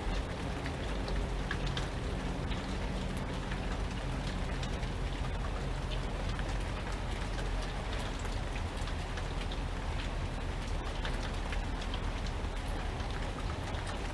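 Steady rainfall, with many individual drops heard as small sharp ticks over a continuous hiss, and a steady low rumble underneath.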